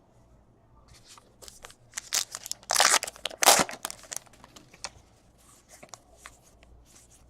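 A card pack's wrapper being torn open and crinkled: a run of crackling rips, loudest about three seconds in, tailing off into a few small crinkles.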